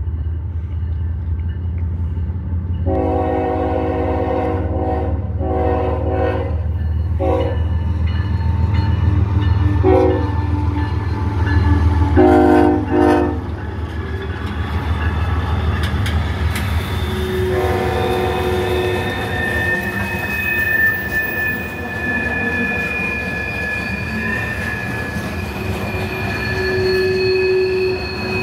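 Freight train's diesel locomotives approaching and passing with a steady low engine rumble, the horn sounding a series of long and short blasts, then another long blast. As the cars roll by, the wheels squeal with thin high tones over the rumble.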